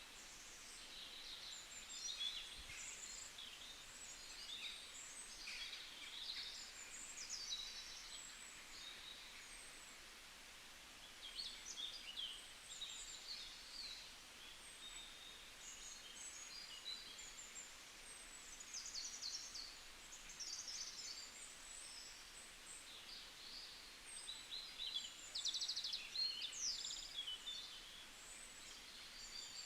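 Several small birds chirping and singing, with short calls and trills coming one after another over faint outdoor background hiss.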